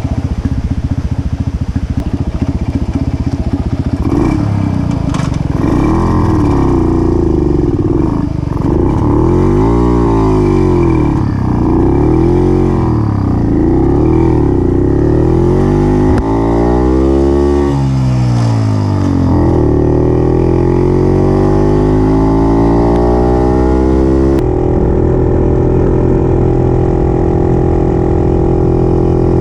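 Puch 250 TF's two-stroke engine pulling away and accelerating: the revs climb and drop again and again as it goes up through the gears, then rise more steadily. Near the end the sound changes abruptly to a steady, duller engine note at cruising speed.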